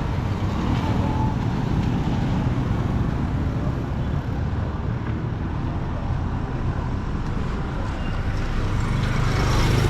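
Steady rumble of a moving vehicle amid road traffic, engine and road noise, swelling a little near the end.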